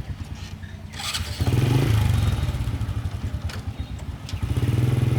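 Small single-cylinder petrol engine running with a fast, even beat. It picks up and gets louder about a second and a half in, eases off briefly near the end, then picks up again.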